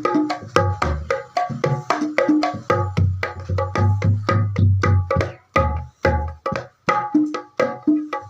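Kemprang drum with a buffalo-hide head played in a fast rhythm, about four to five strokes a second, mixing deep booming bass strokes with higher ringing slaps: a test of the hide head's sound.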